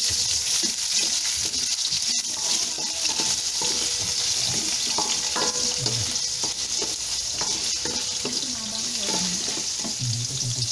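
Cubed potatoes sizzling steadily in hot oil in a stainless steel wok, stirred with a wooden spatula that knocks lightly against the pan.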